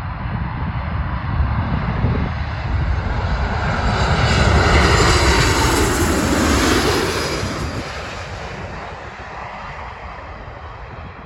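A fixed-wing aircraft's engines pass close by. The sound builds to a peak about five seconds in, then fades, with its pitch dropping as it goes past. Wind rumbles on the microphone underneath.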